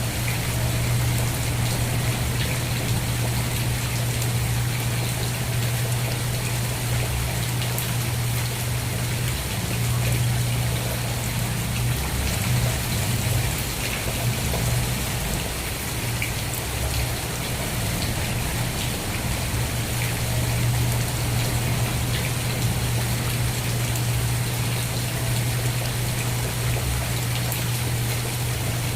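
Steady rain falling, with individual drops ticking sharply over an even hiss, and a constant low hum underneath.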